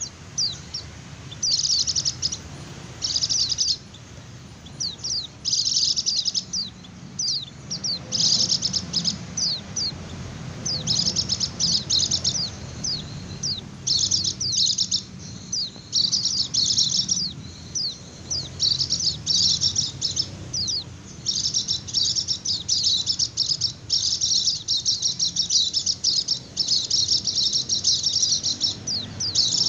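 White-eye (pleci) singing its rapid, high chattering 'ngecir' song in quick bursts of thin, high notes. The bursts come in short clusters at first and run together almost without pause in the second half, over a faint low hum.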